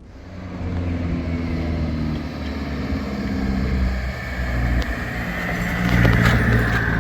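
Car engine running with its note rising and falling, growing louder about a second in and loudest near six seconds in.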